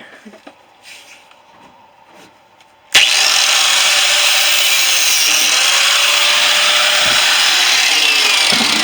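Angle grinder cutting into the steel shell of a refrigerator compressor: a loud, steady grinding that starts abruptly about three seconds in. A few faint knocks of handling come before it.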